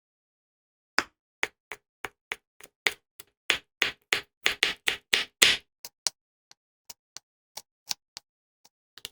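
An irregular run of sharp knocks and taps, about two dozen over eight seconds, each short and separated by silence. They come thickest in the middle and thin out towards the end.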